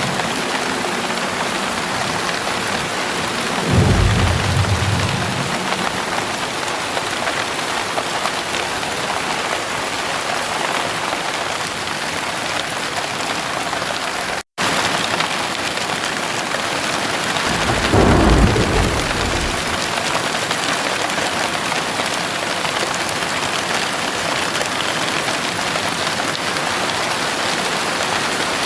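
Heavy rain pouring steadily, with two short low rolls of thunder, one about four seconds in and another a little past the middle. The sound drops out completely for a split second halfway through.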